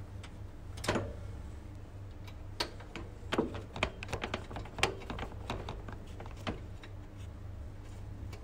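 Hand tool tightening the screws of a lamp shelf on a machine: a run of sharp clicks and light knocks, metal tool against the fittings, thickest in the middle, over a steady low hum.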